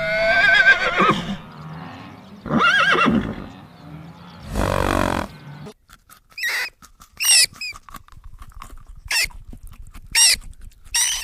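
Animal calls: three wavering, pitched calls in the first half, then a run of short, high, looping calls roughly once a second.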